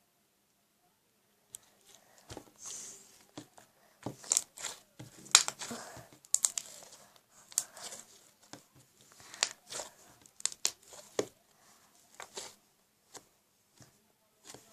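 Irregular crinkling and rustling handling noise with sharp clicks, starting about a second and a half in and stopping shortly before the end.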